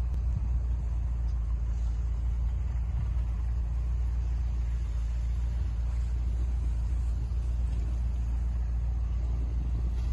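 Jeep Wrangler JK Rubicon engine running steadily just after a cold start in deep snow, a constant deep rumble with no revving.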